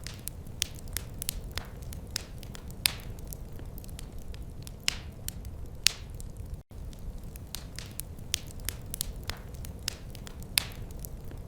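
Wood fire in a fireplace crackling, with irregular sharp pops and snaps over a steady low rumble. The sound cuts out for an instant about seven seconds in.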